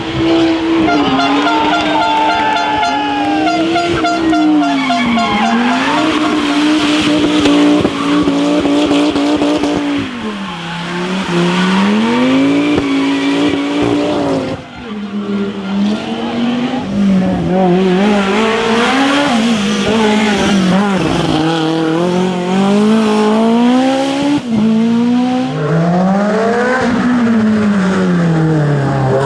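Rally car engines revving hard through the stage, the pitch climbing and dropping again and again with gear changes and lifts off the throttle, with some tyre squeal.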